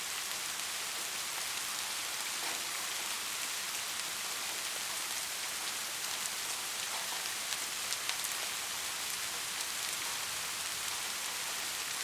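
Steady rain falling, with individual drops ticking close by through the even hiss; no thunder.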